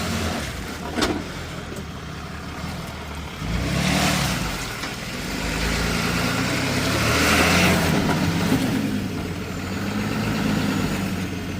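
Vehicle engine running and revving, swelling louder about four seconds in and again around seven to eight seconds in, as it is driven in slippery mud.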